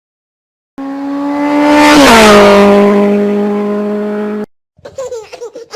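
A vehicle passing by: a steady pitched engine-like sound swells, drops in pitch as it goes past at its loudest, then cuts off suddenly. High squealing glides begin near the end.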